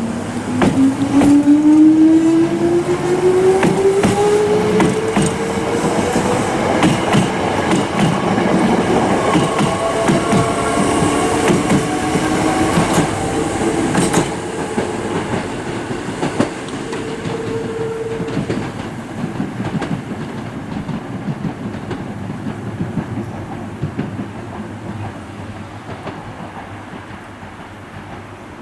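5100 series electric train pulling away: its traction motors whine rising steadily in pitch as it accelerates, with wheels clacking over rail joints. The sound then fades away gradually as the train leaves.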